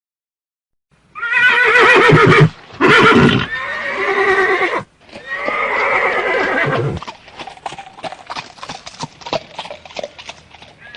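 A horse whinnying in several wavering calls from about a second in, then its hooves clip-clopping in an uneven series of short knocks for the last few seconds.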